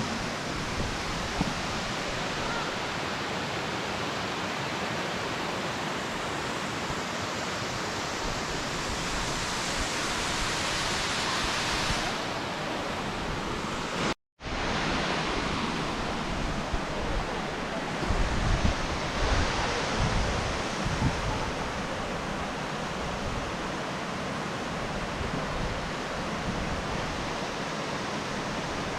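Steady rushing of a waterfall. Partway through the sound drops out for an instant at an edit, and a few seconds later low wind buffeting on the microphone comes in.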